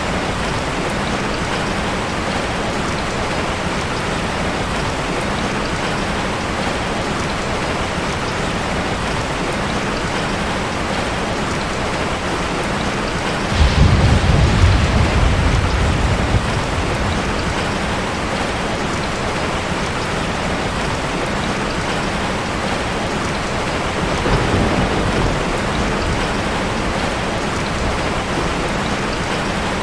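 Steady rushing hiss of water, with a deep rumble about 14 s in that lasts some three seconds and a weaker rumble about 24 s in.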